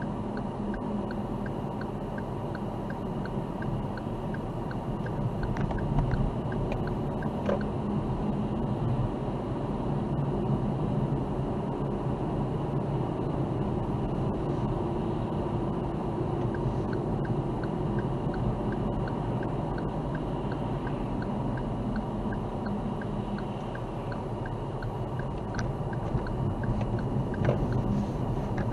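Car driving on snowy streets: a steady low rumble of engine and tyres with a faint, evenly spaced ticking through much of it.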